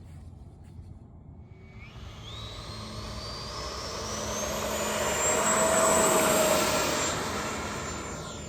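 FMS Super Scorpion 90mm electric ducted fan jet on 8S power throttling up for its takeoff roll: a whine rising steadily in pitch from about two seconds in, growing louder to a peak around six seconds, then fading as the jet moves away.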